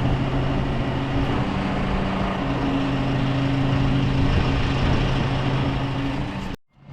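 Diesel engine running steadily with a low hum and broad noise over it; it cuts off abruptly near the end.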